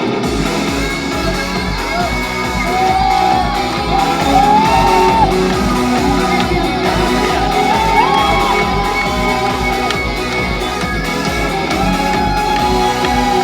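Live band playing a pop song's instrumental intro through a loud PA, with a steady kick-drum beat, while the crowd shouts and whoops.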